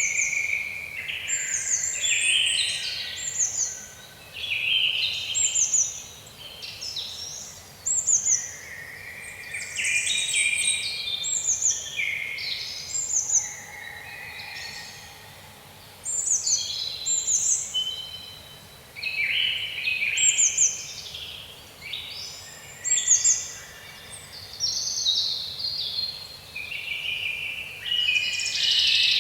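Songbirds singing: a long run of short phrases of high, quick falling notes, one phrase every second or two with brief pauses between.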